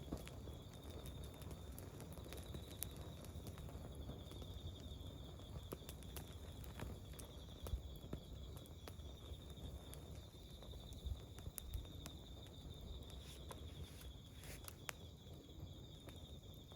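Campfire burning: scattered crackles and pops over a low rumble. A steady high-pitched trill runs behind it.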